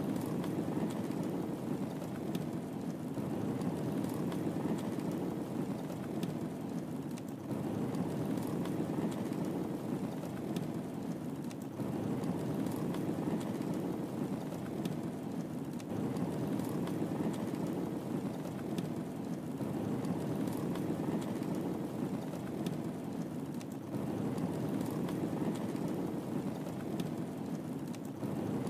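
Wood fire burning in a fireplace: a steady low rush of flames with many small sharp crackles and pops. The texture repeats about every four seconds, a looped recording.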